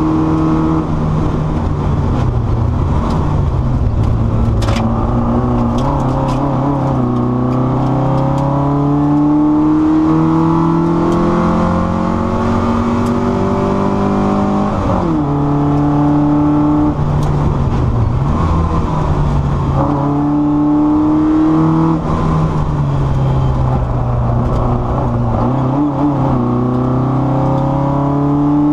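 Car engine heard from inside the car under hard acceleration, its pitch climbing steadily through the revs and dropping back sharply at each gearshift or lift, several times over.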